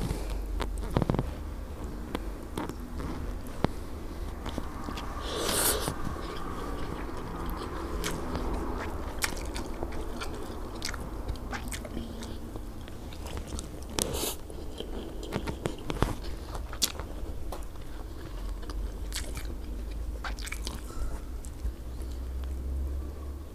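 Close-miked chewing and mouth sounds of a person eating rice and grilled fish by hand, with scattered small clicks and a few louder smacks.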